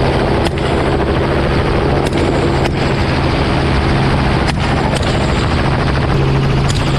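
Helicopter in flight: a loud, steady rotor and engine drone with a low hum. Several faint sharp cracks are scattered through it.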